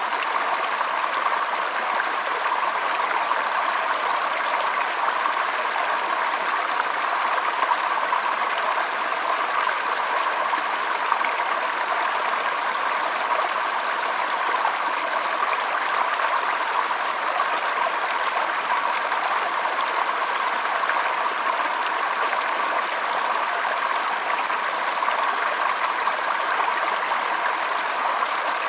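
Shallow stream flowing and trickling steadily over stones.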